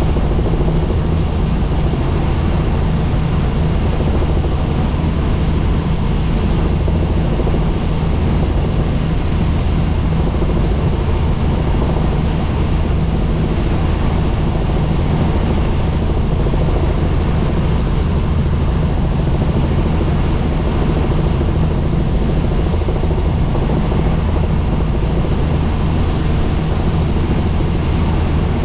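Helicopter in flight: steady drone of the rotor and engine, with a low hum of even stacked tones under a wide rushing noise.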